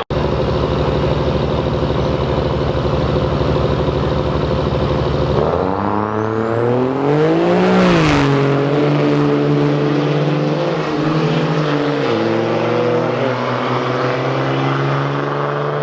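Turbodiesel pickup truck engine at a drag strip running steadily, then revving up about halfway through with a rising turbo whistle. The pitch peaks, falls back, and then drops a step again near the end.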